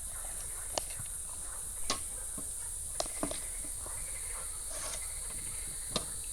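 A few sharp clicks and knocks of spoons and dishes during a meal, five separate taps, over a steady high chirring of insects.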